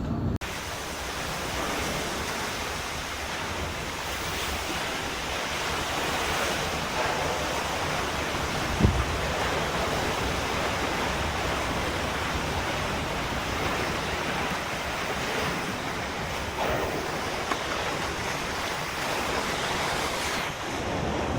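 Storm wind and rough sea: a steady rushing roar with wind buffeting the microphone, and a single thump about nine seconds in.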